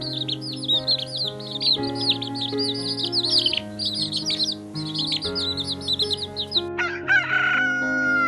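Many small birds chirping rapidly and continuously over soft background music with held notes. Near the end, a rooster starts crowing, one long drawn-out call.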